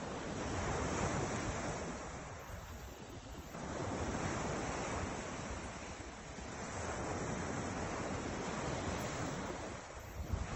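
Ocean surf: waves breaking and washing in, the hiss swelling and fading three times, with low wind rumble on the microphone.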